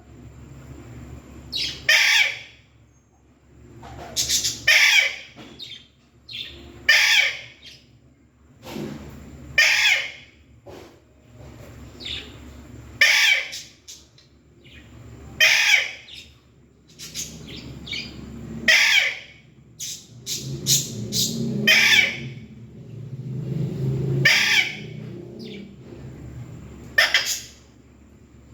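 Pet Alexandrine parakeet (raw parrot) giving short, loud screeching calls, about one every two to three seconds, with a low rumble behind the calls for a few seconds around two-thirds of the way through.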